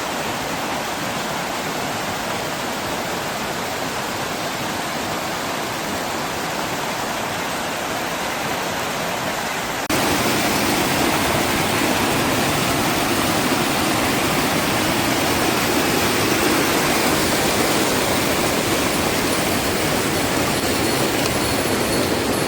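Heavy rain pouring down as a steady, even hiss. About ten seconds in it jumps suddenly to a louder, fuller rush.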